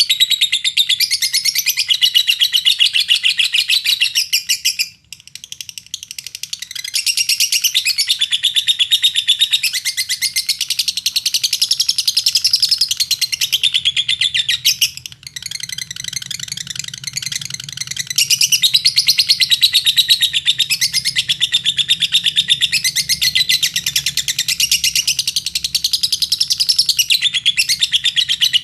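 Lovebird singing a long, fast, continuous chattering trill of high chirps, breaking off briefly about five seconds in and again about fifteen seconds in.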